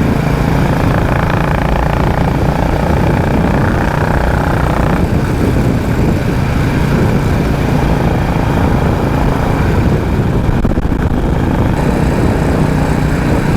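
Royal Enfield Classic 350's single-cylinder engine running steadily under way through its stock exhaust, with the low, chopping beat that is called its "helicopter" sound.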